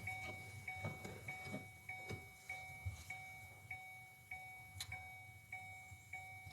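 Car's warning chime ticking faintly and evenly, about one soft tick-tone every 0.6 seconds, with a few light clicks and knocks from hands working at the wiring plugs under the seat.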